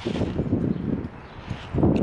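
Wind gusting against the microphone: a rough, uneven rumble that eases a little past a second in and surges again near the end.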